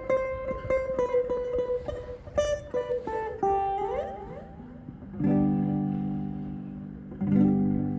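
Electric guitar played without singing: one note plucked over and over, a few notes slid upward in pitch, then two strummed chords, about five and seven seconds in, left to ring.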